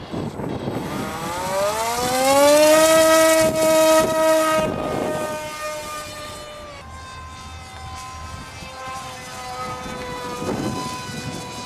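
Electric motor and propeller of a radio-control model airplane, a whine rising in pitch as it spools up, holding high and steady for a couple of seconds, then settling to a lower steady pitch.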